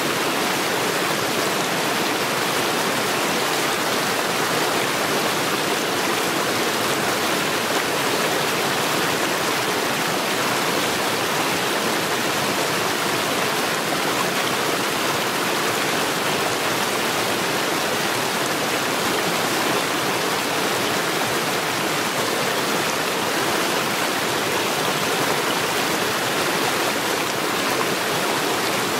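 Mountain stream rushing steadily over stones.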